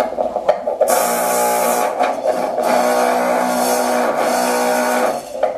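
DIY wok and pizza-pan instrument amplified through contact microphones: sustained pitched metallic tones with a loud harsh rattling buzz over them from about a second in, stopping shortly before the end.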